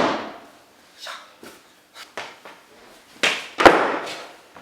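Truckless skateboard deck flipped and slapping down on carpet: a few light knocks, then two heavy smacks in quick succession about three seconds in.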